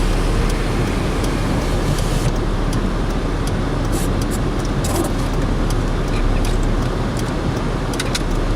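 A vehicle's engine and road noise, heard steadily from inside the cabin, with scattered light clicks from about two seconds in.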